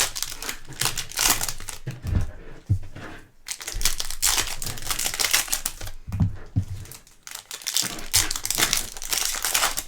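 Foil trading-card pack wrappers crinkling and tearing as packs are opened and cards handled, with a few soft thuds on the table.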